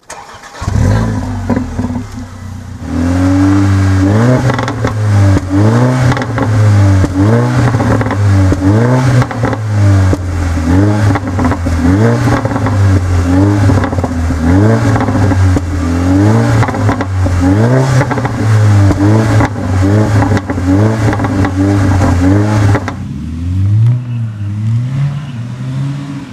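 Mercedes-AMG GLA 45's turbocharged 2.0-litre four-cylinder starting up, idling briefly, then revved hard in short blips about once a second through its quad-pipe exhaust, with crackling between the revs. About three seconds before the end it changes to the engine pulling with rising pitch as the car slides through snow.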